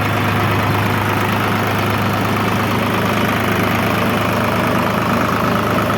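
Tractor engine running steadily with an even, low hum.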